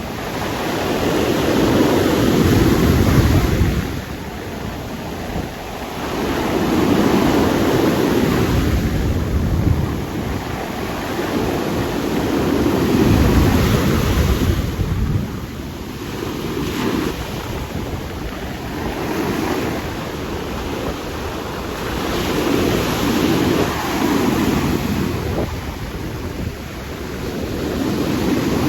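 Heavy surf breaking, with wind buffeting the microphone; the roar swells and eases every few seconds.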